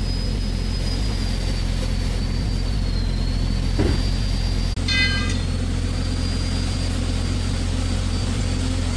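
An excavator's engine running steadily, a constant low hum with a thin high whine above it. About five seconds in there is a brief high ringing tone.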